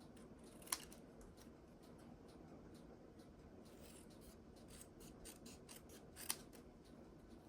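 Small craft snips cutting paper: quiet snipping, with two sharp clicks, one under a second in and one about six seconds in.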